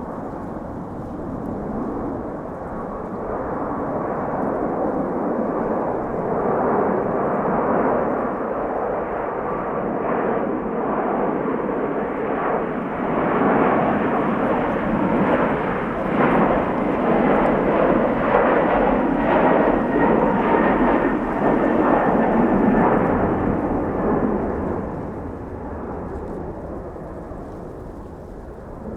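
Jet airliner passing by: a broad engine rush that builds over about twelve seconds, stays loudest for about ten, then fades, with a faint engine whine above it.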